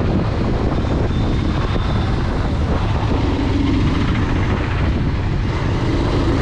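Bajaj Pulsar 220 motorcycle's single-cylinder engine running steadily under way, with wind rushing over the action camera's microphone.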